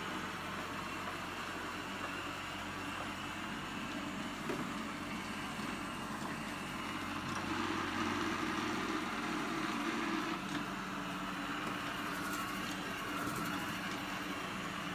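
eufy L60 robot vacuum running, with a steady whir from its suction fan and brushes as it cleans the floor. A few faint ticks come near the end.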